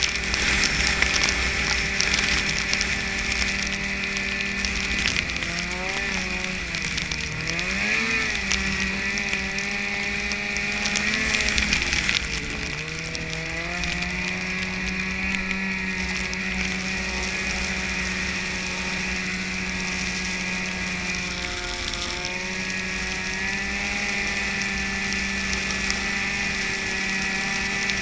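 Snowmobile engine running under way, its pitch dipping and rising several times between about five and twelve seconds in as the throttle changes, then holding steady, with a steady hiss above it.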